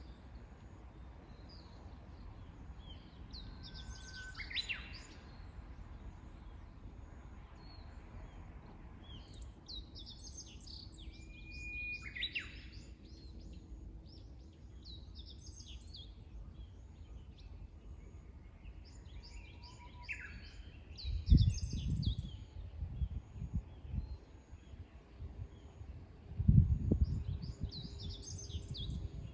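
Several wild birds singing outdoors: bursts of high chirping phrases every few seconds, and three times a held whistle that breaks into a quick sweeping phrase, over a steady low outdoor hiss. Two brief low rumbles come late on, louder than the birdsong.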